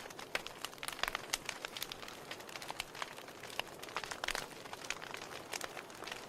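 Wood fire in a fireplace crackling: irregular sharp pops and snaps of burning logs over a soft steady hiss of the flames.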